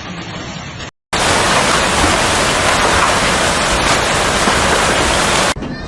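A dense, steady downpour of hail and heavy rain. It starts loud just after a brief silence about a second in and cuts off suddenly near the end. Before the silence there is a quieter stretch of similar noise.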